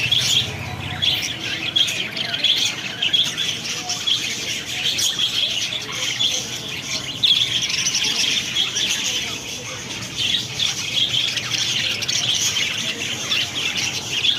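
A flock of budgerigars chattering together, a dense continuous mass of chirps and warbles.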